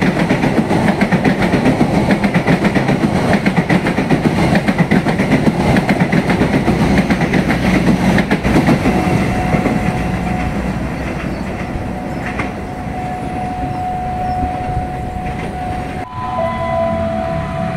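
Passenger coaches of a passing train rolling by, their wheels clattering over rail joints in a fast rhythm. The clatter fades in the second half to a steady rumble with a thin held tone.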